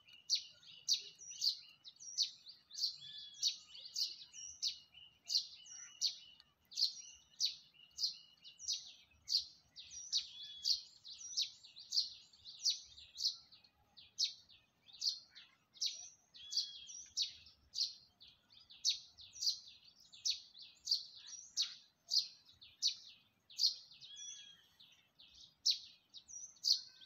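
A small songbird chirping over and over, short high chirps about two to three a second, with a faint steady high tone under them for roughly the first nine seconds.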